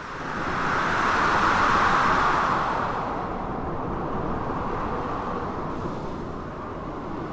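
Storm wind rushing in gusts over a low, steady rumble of surf. A gust swells over the first couple of seconds and then slowly eases.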